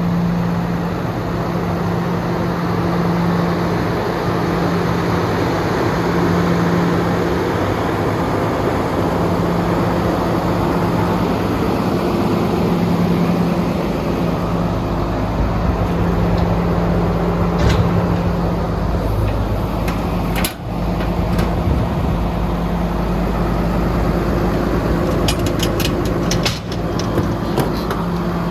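Cummins ISB six-cylinder diesel in an International 4300 dump truck running steadily, with a steady low drone. A few sharp clicks or knocks cut in about two-thirds of the way through and again near the end.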